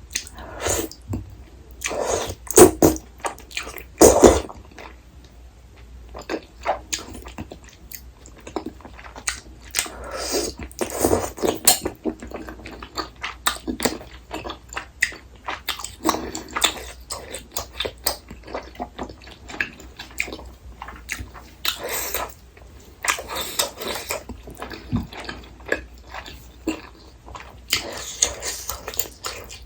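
Close-miked mouth sounds of a person chewing and biting rosé tteokbokki and corn cheese: irregular wet chews and smacks, with a couple of louder bites about two and four seconds in.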